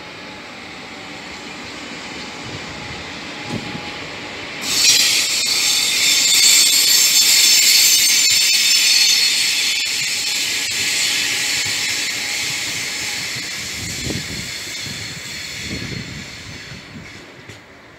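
TER Bretagne regional electric train passing along the track. A low rumble builds, then about five seconds in a loud, high-pitched hissing squeal sets in suddenly and slowly fades as the train draws away. There are a couple of dull knocks near the end.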